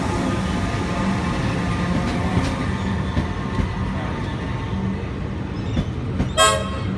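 Comeng electric suburban train at the platform: a steady low hum with a whine that fades away over the first few seconds, a few clicks, and a brief high-pitched toot about six and a half seconds in.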